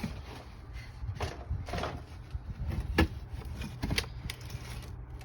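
Several sharp clicks and knocks, the loudest about three seconds in, over a low steady hum.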